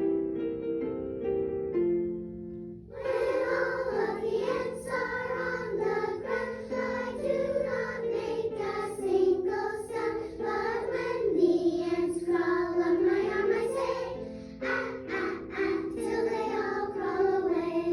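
Children's song: a short keyboard introduction, then a choir of children's voices singing with the accompaniment from about three seconds in.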